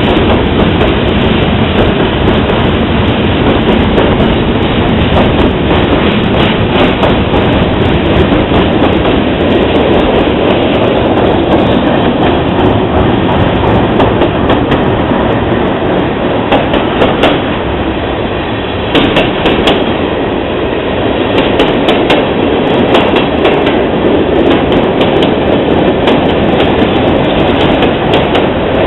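Freight train of covered hoppers and tank cars rolling past close by: a loud, continuous noise of steel wheels on rail with frequent clicks and clanks as the wheels cross the rail joints.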